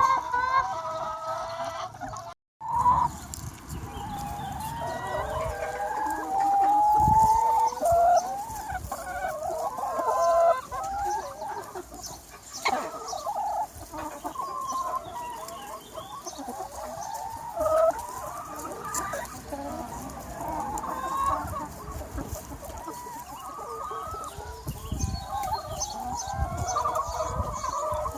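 A large free-range chicken flock, many hens clucking and calling over one another continuously. The sound cuts out completely for a moment about two and a half seconds in.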